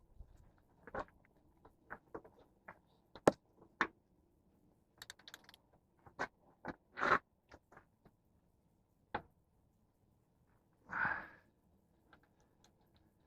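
Scattered sharp clicks and knocks of hand tools and metal parts being handled during the repair, with one loud sharp knock about three seconds in and a short scraping rasp about eleven seconds in.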